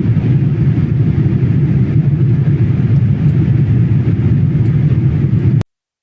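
Steady low rumble of an airliner's cabin noise in flight, the engine and airflow drone heard from inside the cabin. It cuts off abruptly near the end.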